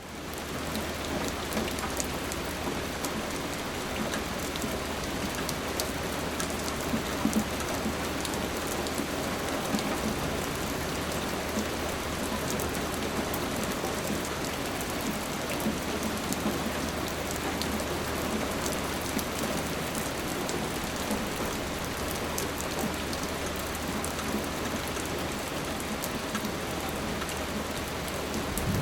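Steady rain falling, an even hiss dotted with many separate drops ticking. A low steady hum runs underneath and fades out about ten seconds in.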